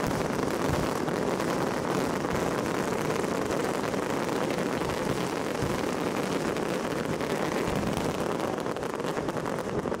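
Dense fireworks barrage: many shell bursts and crackles merging into one steady, unbroken wash of sound.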